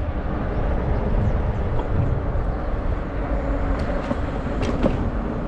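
Steady low rumble of wind on the microphone and fat tyres rolling, from a 20-inch fat-tire e-bike being ridden.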